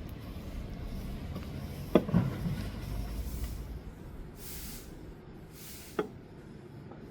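Two sharp knocks about four seconds apart, with two short hisses between them, over a low rumbling background.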